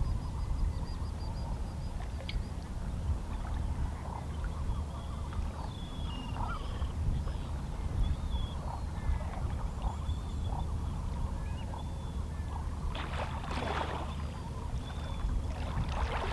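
Calm sea with small waves lapping against shoreline rocks over a steady low wash, with faint seabird calls. Two brief louder splashes come near the end.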